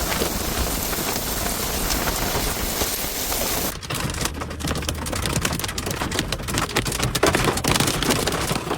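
Heavy rain and hail storm: a dense, steady roar of downpour, then after a sudden change at about four seconds a rapid, irregular clatter of sharp knocks as hailstones strike a hard surface.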